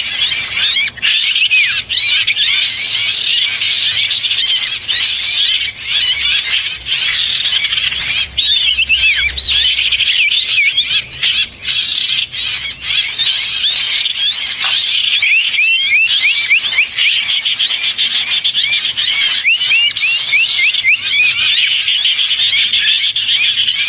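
A dense, continuous chorus of small songbirds calling at once: many overlapping quick chirps and trills. It is a bird-lure (pikat) recording of small birds calling agitatedly, used to draw wild birds in.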